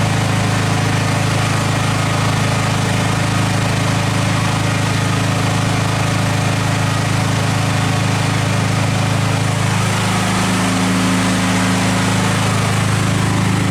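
A portable generator's small engine running steadily at a constant speed, with a deep, even hum; its tone shifts slightly about ten seconds in.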